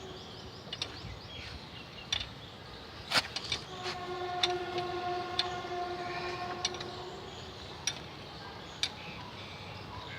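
A steady horn-like tone sounds for about three seconds in the middle, over scattered sharp metallic clicks and taps of a ratchet and socket working on the car's mounting bolts.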